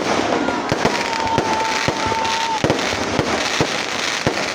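Fireworks going off: a dense crackling with many sharp bangs, and a steady high whistling tone for about two seconds near the start.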